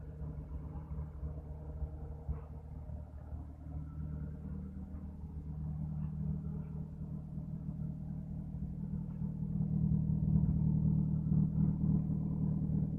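Toyota Avanza engine running through an aftermarket full-set header exhaust, a steady low rumble at idle that grows somewhat louder in the second half.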